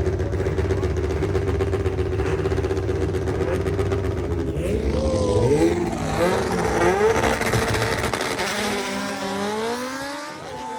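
Drag race car engine held at steady revs, then launching: the pitch climbs and drops back several times as it shifts gears, then falls and fades as the car pulls away down the strip.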